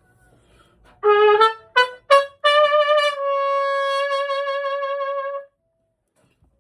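Trumpet playing a short phrase: three brief notes, then one long held note that cuts off about five and a half seconds in.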